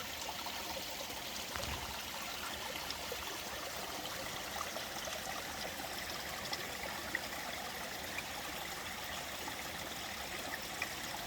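Mountain valley stream flowing over rocks: a steady rush of water with small splashes and droplet ticks scattered through it.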